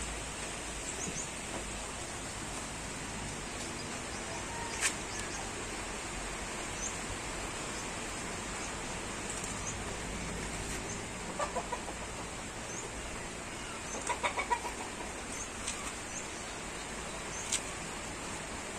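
Steady rain hiss with a continuous high-pitched buzz over it, dotted with short high chirps and a few sharp ticks. Twice, about halfway in and again a few seconds later, an animal gives a quick run of pulsed calls.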